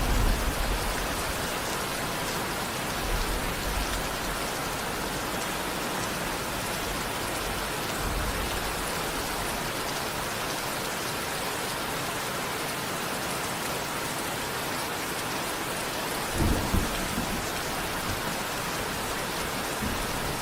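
Steady rain falling, an even hiss. Brief low rumbles stand out right at the start and again about sixteen and a half seconds in.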